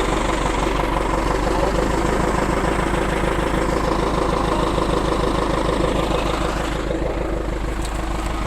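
A heavy vehicle engine running steadily while a skidder pulls a stuck truck free.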